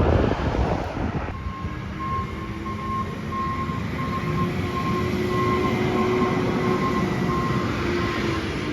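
Garbage truck's reversing alarm beeping about twice a second over its running diesel engine, which drops in pitch near the end.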